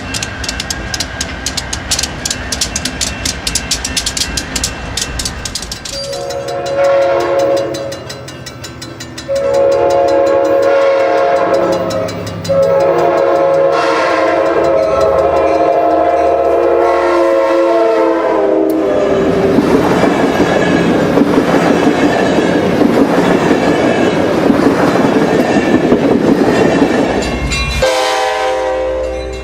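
A train's wheels clicking fast over rail joints, then its horn sounding a chord in three blasts, the last one long. A loud rushing rumble of the passing train follows, and the horn sounds briefly again near the end.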